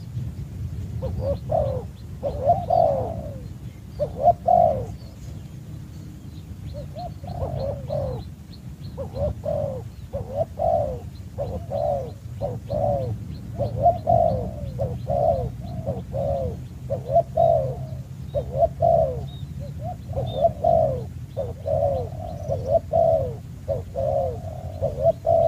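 Dove cooing over and over in short, arched coos, one or two a second, with faint high chirps of small birds and a steady low rumble underneath.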